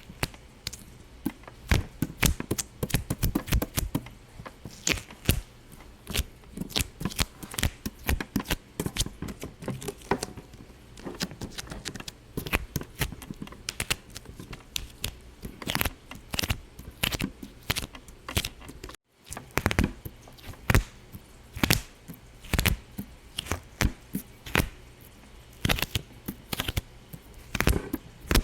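Irregular sharp pops and crackles, several a second, going on without a break except for a brief dropout about two-thirds of the way through.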